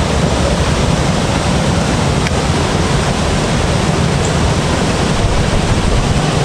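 Steady rushing noise with a fluctuating low rumble: wind buffeting the microphone.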